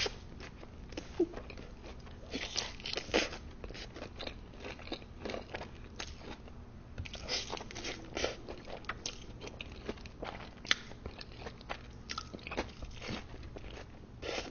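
Close-miked eating of crispy fried food from Wingstop: crunchy bites and chewing, in irregular bursts of crackle throughout.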